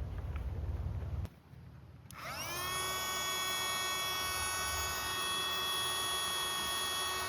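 Low wind rumble on the microphone cuts off abruptly about a second in. About two seconds in, a sustained drone with many overtones swells in, sliding up into pitch, then holds steady.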